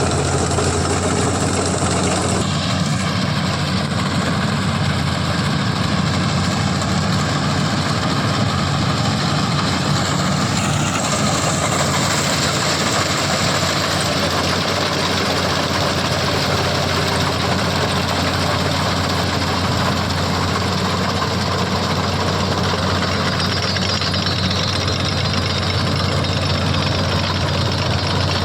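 CLAAS combine harvester's diesel engine running steadily, a low, even hum under a dense, constant mechanical noise.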